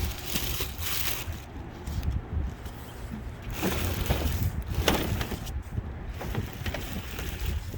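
Rustling, crinkling and a few sharp knocks of packaging and the unit being handled while a car fridge is unboxed, over a low wind rumble on the microphone.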